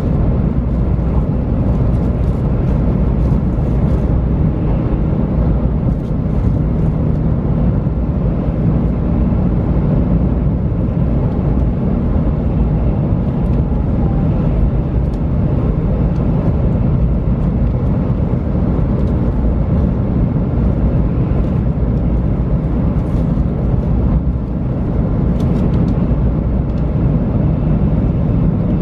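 Steady running noise of a JR West 500 series Shinkansen heard inside the passenger cabin: a loud, even low rumble from the wheels and track with a faint, steady hum of tones, unchanging throughout.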